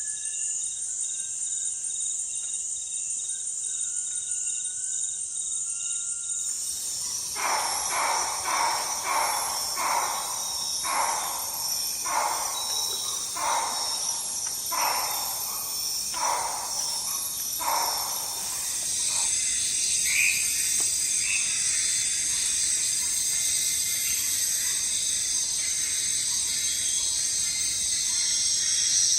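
Insects shrilling steadily in a nature ambience, with a few short bird whistles early on. About six seconds in the track changes to a series of about a dozen repeated calls, roughly one a second, that stop near the middle, leaving the steady insect shrilling.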